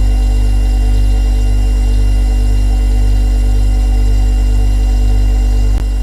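Refrigerator compressor running with a steady low hum and a set of fainter steady whining tones above it. There is a brief click near the end.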